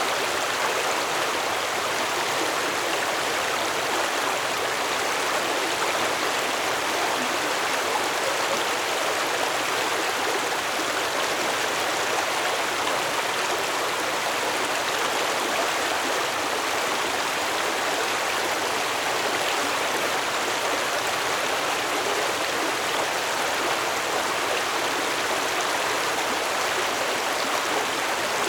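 Stream water flowing: a steady, unbroken rush of running water.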